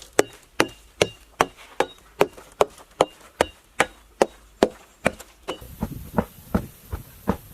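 A steady run of sharp strikes, about two and a half a second, like chopping or pounding on wood. About five and a half seconds in, the strikes turn duller and lower.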